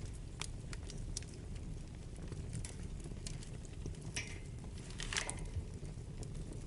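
Wood fire burning in a fireplace: a steady low rumble with scattered sharp crackles and pops, and two louder hissing crackles about four and five seconds in.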